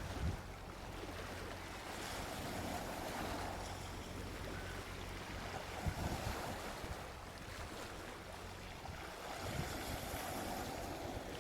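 Soft sea waves washing onto a beach, swelling and easing in slow surges, with a few brief low thumps.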